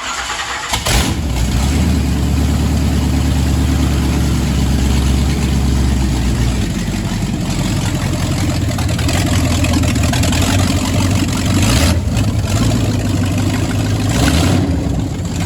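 454 big-block Chevy V8 firing up for the first time after an engine swap, running on newly mapped MSD Sniper fuel injection. It catches at once and keeps running steadily and loudly.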